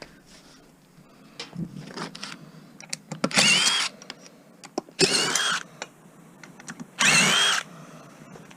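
A cordless drill/driver running in three short bursts, each about half a second, with a whine that rises and falls; it is backing out screws or nuts while an appliance is taken apart for scrap. Small clicks of handling come between the bursts.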